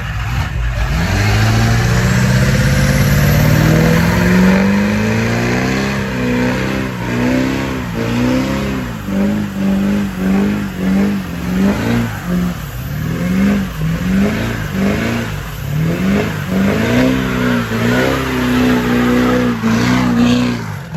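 Truck engine revved hard for a burnout: a long rising rev over the first few seconds, then held high and blipped up and down again and again.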